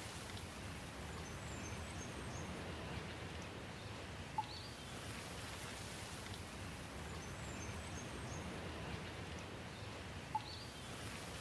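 Steady rain, with faint high bird chirps twice. A short, sharp plink stands out above the rain twice, about four seconds in and again near the end.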